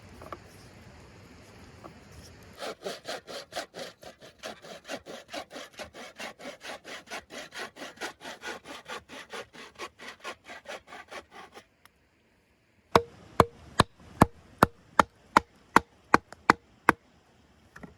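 Hand saw cutting through wood in quick, even strokes, about four a second. After a short break comes a run of about a dozen sharp knocks, roughly three a second.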